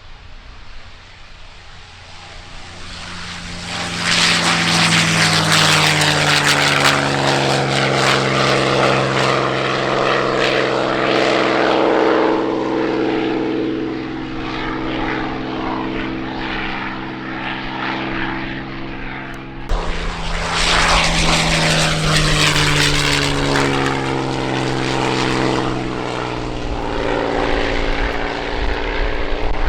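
Piston-engined propeller warbird flying past, its engine drone swelling and then dropping in pitch as it goes by. After an abrupt cut about twenty seconds in, a second fly-by follows with the same falling drone.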